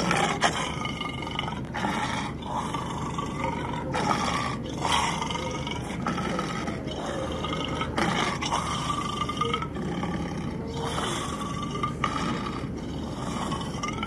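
Cartoon leopard seal vocal effects: a string of growls and snarls, one after another, each a second or two long with a wavering pitch.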